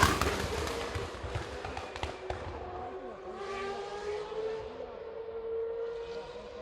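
Racing car engine fading away just after a fast pass-by, its pitch falling, followed by the steady note of other race cars running further off around the circuit, their pitch drifting slowly down.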